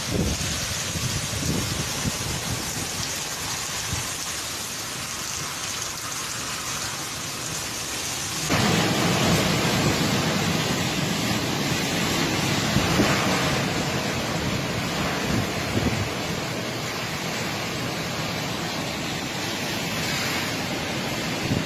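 Storm noise of rain and strong wind, with rumbling buffeting from a hurricane-force storm. About eight seconds in it changes abruptly to a louder, rumblier stretch.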